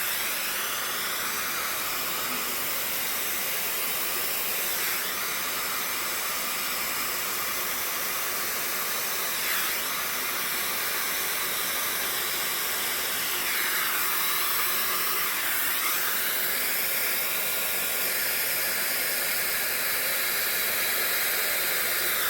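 Hair dryer running steadily, blowing air across wet acrylic paint to spread it into a bloom. The even hiss dips briefly in pitch a few times as the airflow shifts.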